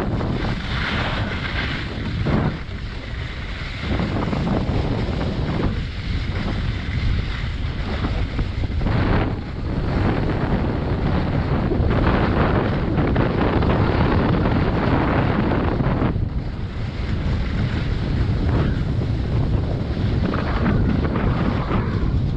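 Loud wind noise on the microphone of a skier moving downhill, with the hiss of skis on snow swelling and easing every few seconds.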